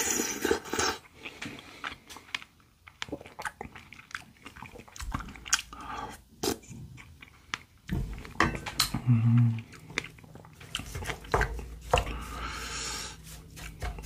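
Close-miked chewing of strawberry shaved ice (bingsu): many small, wet, crunchy bites and mouth clicks.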